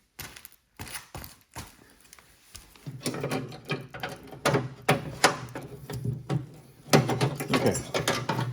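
Metal clicks and clanks of a John Deere LA105 mower deck's engagement spring and clip being worked loose by hand. A few scattered knocks at first, then a busier run of sharp metallic knocks from about three seconds in.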